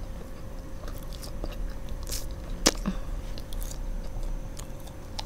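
Close-up mouth sounds of someone chewing soft marshmallow, with scattered small clicks and one sharp click about two and a half seconds in.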